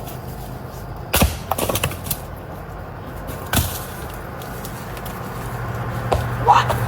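Wood being split on a chopping block: two sharp strikes about two and a half seconds apart, the first the loudest and followed by a few lighter clacks of wood. A low steady hum grows louder near the end.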